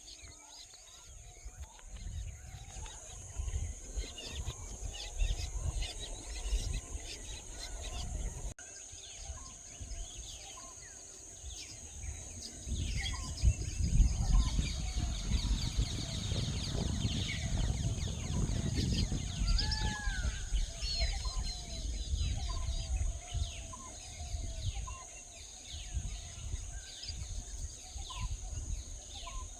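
Many small birds chirping and calling in short, rapid notes, over a steady high-pitched insect buzz. Low wind rumble swells through the middle.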